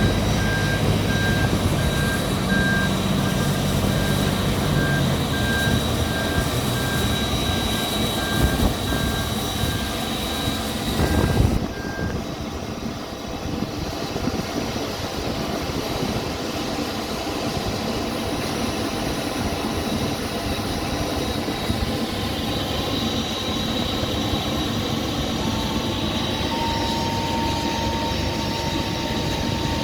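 An airport towbar pushback tractor running with its reverse-alarm beeper sounding a steady string of beeps, which stop about twelve seconds in after a brief louder swell. A steady high whine runs underneath.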